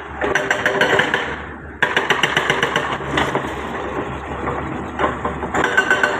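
Hyundai 140W-7 wheeled excavator's diesel engine running with a fast, rattling pulse; it gets louder in stretches, with a sharp step up about two seconds in.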